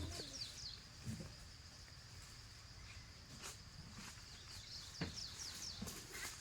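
Faint rural ambience: a steady high insect drone, with a few quick clusters of short falling bird chirps and some scattered soft knocks.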